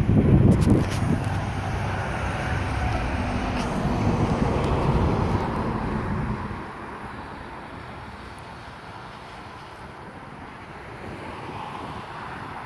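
A semi truck passing close by: a loud low diesel rumble with a few rattles, which falls away after about six seconds to quieter road noise.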